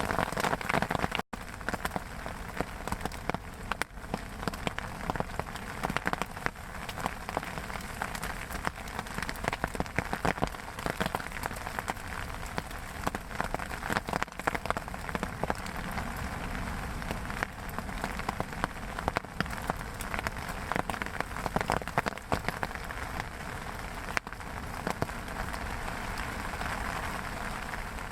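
Steady rain falling, with many separate drops ticking sharply and irregularly close by over a constant hiss.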